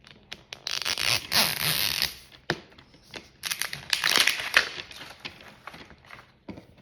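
Packaging being crinkled and torn open by hand, in two noisy bursts about two seconds apart, with small clicks of handling in between.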